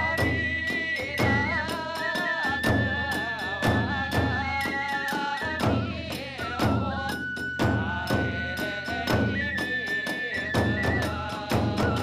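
Hiroshima kagura accompaniment: a transverse bamboo flute holds high notes that step up and down in pitch. Beneath it, drum strokes and clashing hand cymbals keep a quick, steady beat.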